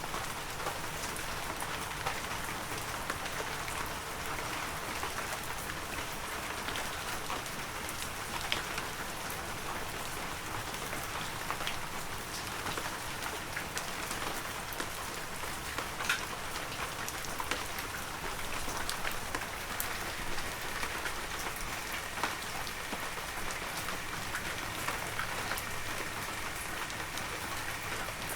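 Heavy rain falling steadily, a dense even hiss with scattered sharp drip ticks standing out.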